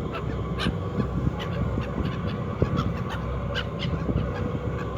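A flock of seagulls calling and squabbling, many short cries overlapping one another.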